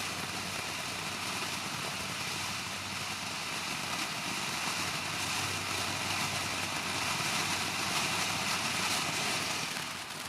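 Ground firework fountain hissing steadily as it sprays sparks. It swells a little after the middle and dies down near the end.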